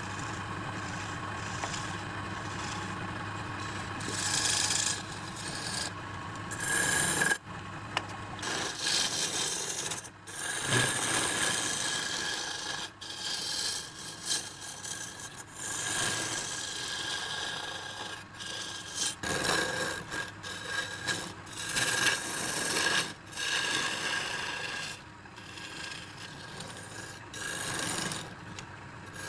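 Tool scraping against a redwood burl spinning on a wood lathe, over the lathe's steady hum. The sound changes abruptly every few seconds.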